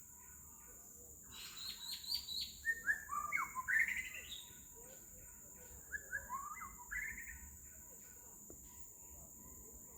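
White-rumped shama singing: two phrases of rich, varied whistled notes sliding up and down, the first starting about a second in and lasting about three seconds, the second, shorter, about six seconds in. A steady high-pitched hiss runs underneath.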